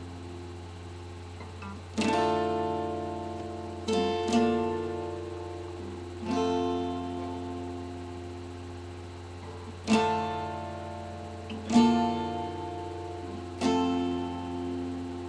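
Acoustic guitar strumming single chords about every two seconds and letting each one ring out, sometimes with a quick second stroke close behind, over a steady low electrical hum.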